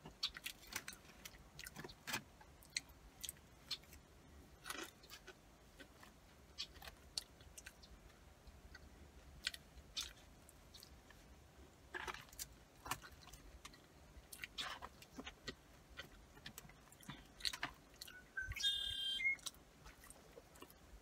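Close-up chewing and mouth sounds of someone eating cheesy curly fries: irregular soft smacks and clicks. A bird calls briefly near the end.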